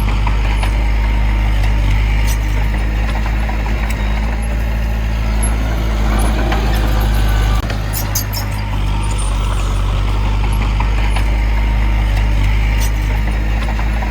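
Large diesel engine of heavy earthmoving equipment running steadily under load, with a steady low drone that shifts abruptly about seven and a half seconds in, and a few light metallic clicks just after.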